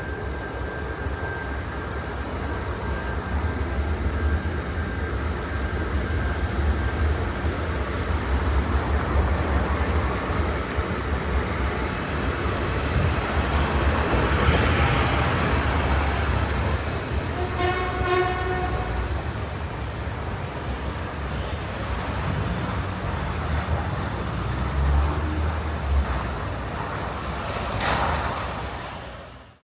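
Train running over a road level crossing: a steady heavy rumble of wheels and engine that swells to its loudest about halfway through. A horn sounds briefly a few seconds after the peak, and a sharp clack comes near the end.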